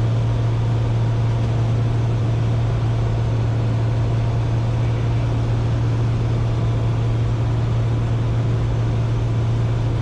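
Cessna 210K's single six-cylinder engine and propeller droning steadily in flight, heard from inside the cabin as a constant low hum.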